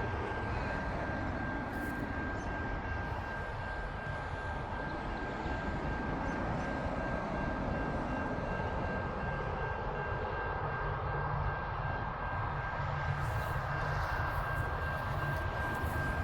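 Four diesel-electric freight locomotives pulling hard on a mainline climb, a steady heavy engine rumble with a thin, steady high whine above it.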